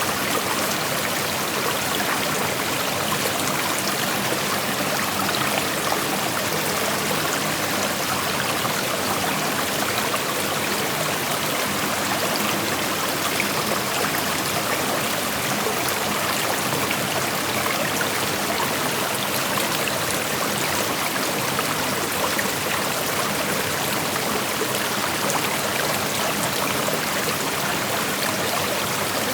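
Shallow creek flowing over stones: a steady rushing and trickling of water, even in level throughout.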